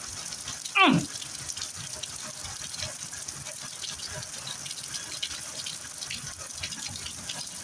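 Heavy rain falling steadily, a dense hiss with scattered drop ticks. About a second in, a short loud whoop glides from high to low pitch.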